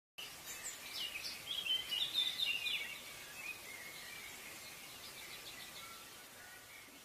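Small birds chirping in quick, high calls over a faint steady outdoor hiss. The calls are busiest in the first three seconds, then thin out to a few softer ones.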